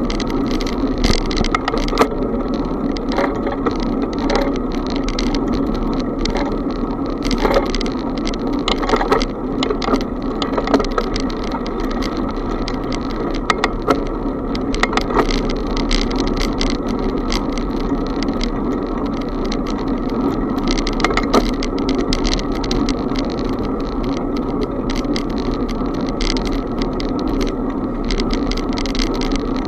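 A bicycle in motion, heard from the bike itself: a steady rush of wind and tyre noise with many sharp clicks and rattles, which thin out in the last third.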